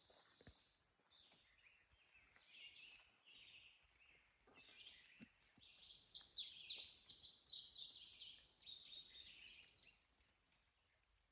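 Wild songbirds singing: many quick, high chirping notes, busiest and loudest from about halfway through, then stopping about a second before the end.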